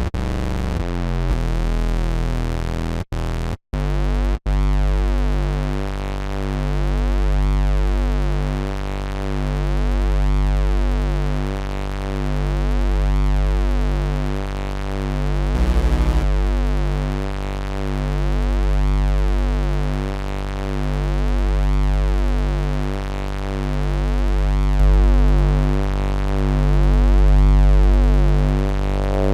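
Electro house synthesizer bass sound playing as a held, looping tone, with a filter sweeping up and down so it swells roughly every three seconds. Playback cuts out briefly a few times near the start.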